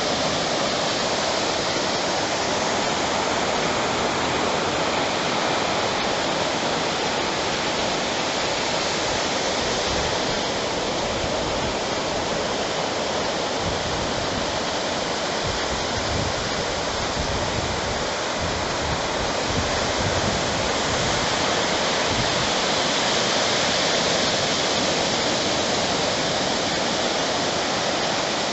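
Steady rushing wash of ocean surf on the beach, an even hiss with no single wave breaks standing out.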